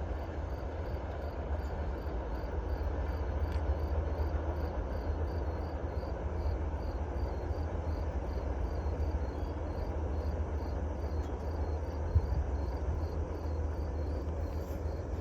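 Insects, crickets by the sound's pattern, chirping steadily about three times a second over a continuous low rumble from the receding freight train or wind.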